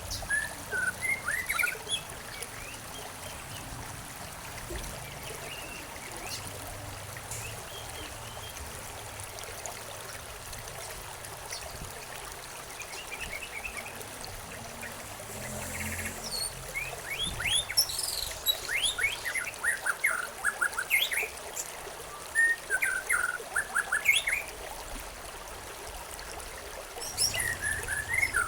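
Songbirds chirping in short bursts of quick, downward-sliding notes over the steady trickle of a stream, with a quieter stretch of only water between the first flurry and a busier run of calls in the second half.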